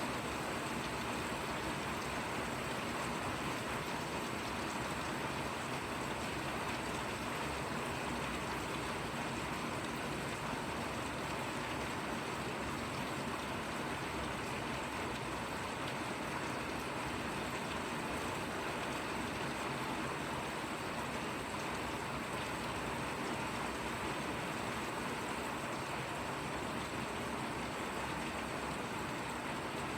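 Steady rain falling, an even, unbroken wash of sound with no single drops standing out.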